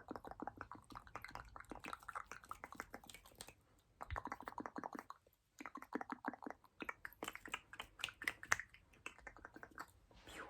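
ASMR mouth sounds: fast runs of wet clicks and smacks close to the microphone, broken by two short pauses about four and five and a half seconds in.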